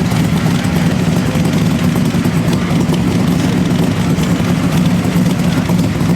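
An engine idling steadily, with a low, even hum and no revs.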